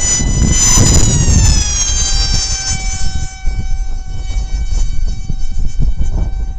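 Ritewing Lightning 36 model flying wing whistling as it passes at speed: the high tone drops in pitch in the first seconds as it goes by, then holds steady as it flies away. Wind buffets the microphone underneath.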